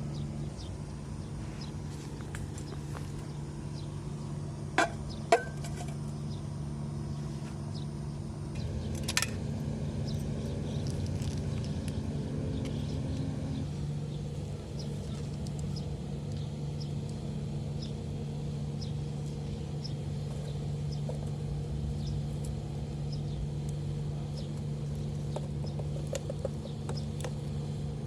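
A steady low mechanical hum, like a distant engine, with three short sharp clicks about five and nine seconds in.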